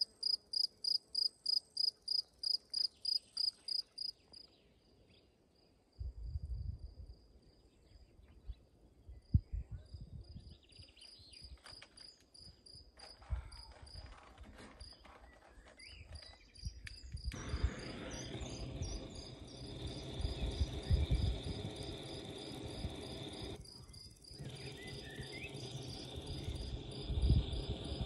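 Insect chirping in a fast, even rhythm of about three to four high chirps a second, loud for the first few seconds and then fainter. About halfway through, a steady noise and low rumbling rise underneath it.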